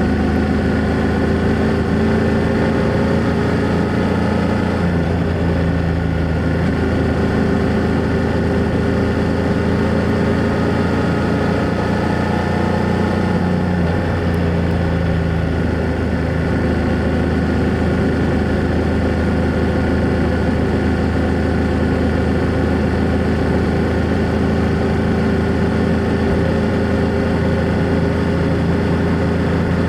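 BMW F800GS parallel-twin motorcycle engine and exhaust running steadily under way, its pitch shifting slightly a few times with small changes in speed.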